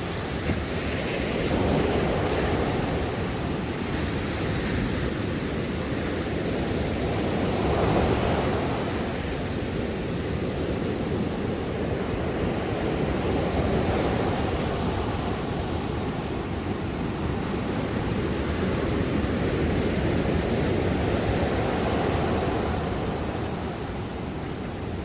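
Ocean waves breaking on a shore, a continuous rush of surf that swells and eases every few seconds.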